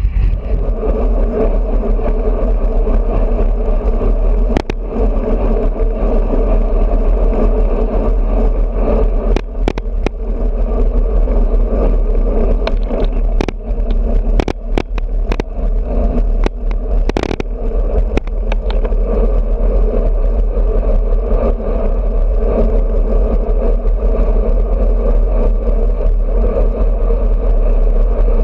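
Steady rush of wind and road noise on a GoPro mounted on a moving road bike, with a scatter of sharp clicks and rattles through the middle stretch.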